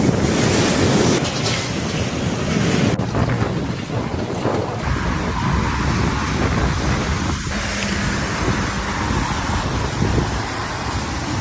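Storm noise: wind buffeting the microphone over a dense, steady rush. The sound changes abruptly about three, five and ten seconds in, where separate shots are cut together.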